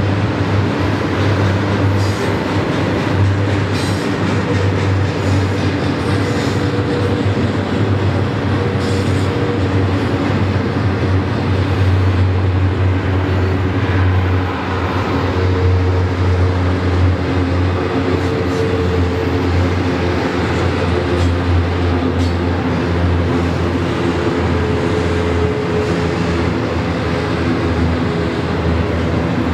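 Double-stack intermodal freight train rolling steadily past: the continuous rumble of its loaded well cars' steel wheels on the rails.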